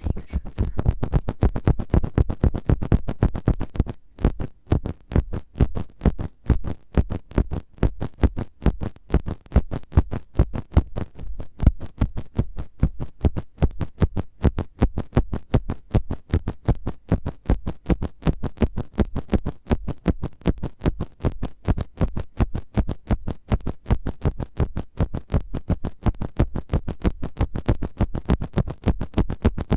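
ASMR trigger of fast, repeated brushing and scratching strokes right on a microphone, several strokes a second in an even rhythm, with a brief pause about four seconds in.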